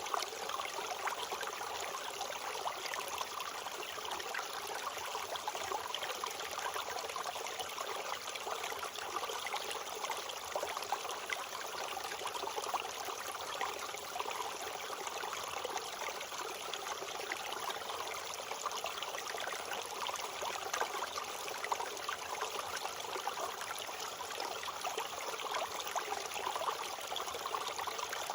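A mountain stream running steadily, a continuous rushing and trickling of water.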